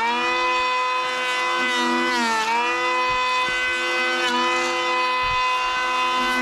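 A motor running at a steady high speed, its pitch sagging briefly twice, at the start and about two and a half seconds in, as if it takes on load.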